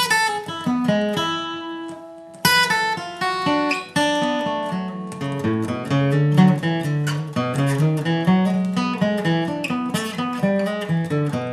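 Acoustic guitar playing a bluegrass passage, the ending section of the song. A chord is struck at the start and left ringing. After about two and a half seconds comes a quick run of single picked notes over bass notes.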